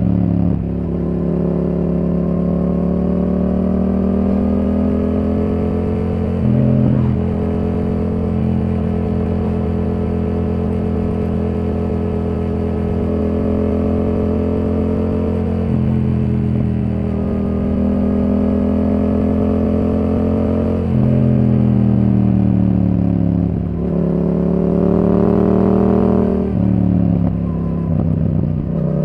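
Yamaha R7's 689 cc parallel-twin engine running through a Yoshimura R77 exhaust while riding. The engine note rises and falls with the throttle, with abrupt changes in pitch about a third of the way in and twice near the end as it changes gear.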